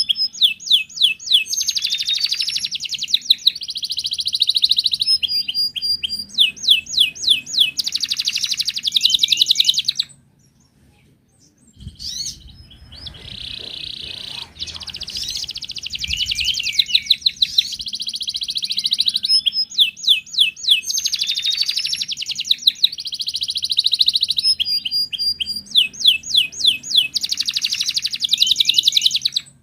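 Wild canary singing: fast rolling trills and runs of repeated high notes in long phrases. The song breaks off about ten seconds in for two seconds, then resumes.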